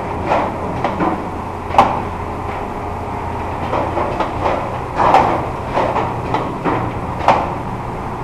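Industrial croissant-making machine running: a steady low hum with irregular mechanical clacks and knocks, the sharpest about two, five and seven seconds in.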